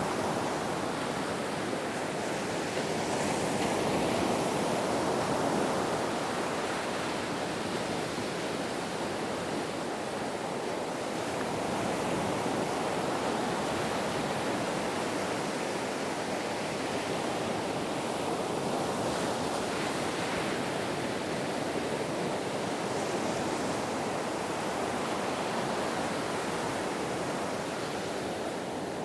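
Ocean waves washing onto a shore, a continuous surf noise that swells and eases gently every several seconds.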